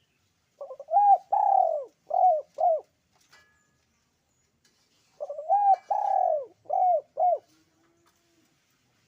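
Puter pelung (Barbary dove) cooing: two matching phrases of about four rising-and-falling notes each, the first about half a second in and the second about five seconds in.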